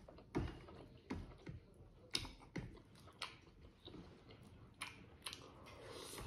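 Close-up chewing of boiled smoked pork and innards: irregular wet mouth clicks and smacks, a sharp one about half a second in.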